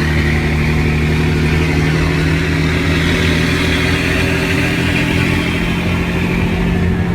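Scania 113 truck's inline six-cylinder diesel engine running at a steady speed, its exhaust note growling.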